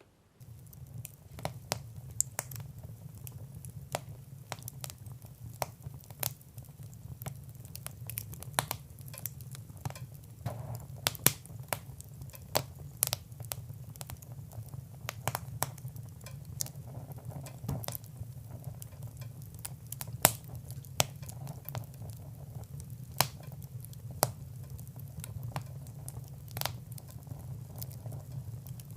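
Wood fire crackling in a fireplace: irregular sharp pops and snaps over a steady low rumble, starting about half a second in.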